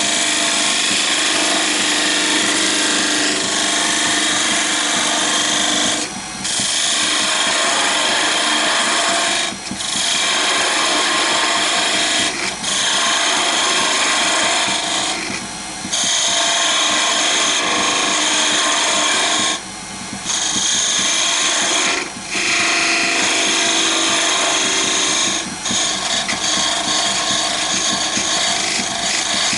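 Wood lathe spinning a small wooden blank while a turning tool cuts into it: a continuous scraping hiss, broken by brief pauses about seven times as the tool is lifted off and set back to the cut.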